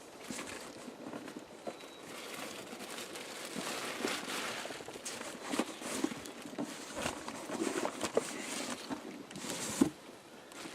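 Cardboard packing being handled and pulled out of a shipping box: rustling, scraping and crinkling, with a sharp knock near the end.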